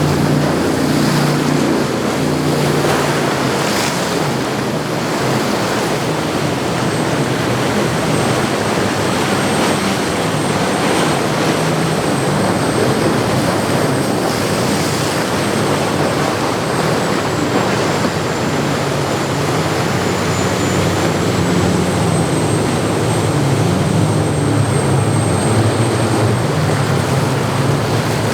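Hatteras 70 Sportfish motor yacht's diesel engines running steadily as it moves through the inlet, over rushing water from the wake and wind on the microphone. The engine note changes about three seconds in, as one boat's sound gives way to the next, and a thin high whine joins about six seconds in.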